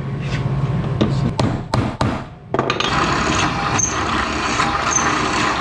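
Tools and metal parts being handled on a workbench: several sharp knocks and clanks in the first couple of seconds, then a steady rushing noise.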